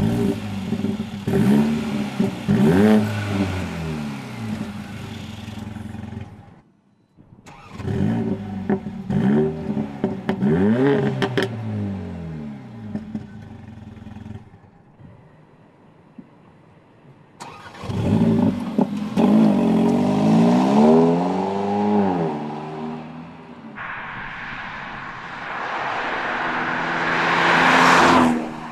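Mercedes-AMG CLA 45's 2.0-litre turbocharged four-cylinder engine revved at standstill in three bursts of quick blips, its pitch rising and falling with each. Near the end the car accelerates, its note rising and growing louder before dropping off.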